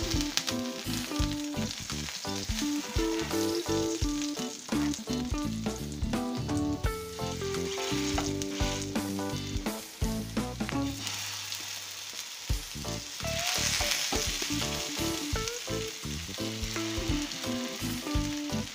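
Plantain patties and a piece of butter sizzling in shallow oil in a frying pan, with background music playing over it.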